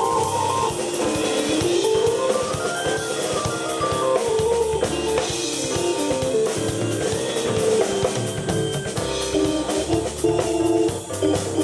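Live rock jam on keyboard and drum kit: the keyboard plays quick runs of notes stepping up and down over a steady drum beat with cymbals ticking evenly.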